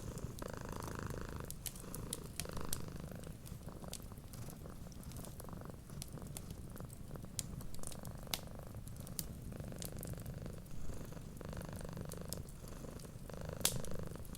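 A cat purring steadily, swelling and fading with each breath, over a wood fire's crackle of scattered sharp pops, one louder near the end.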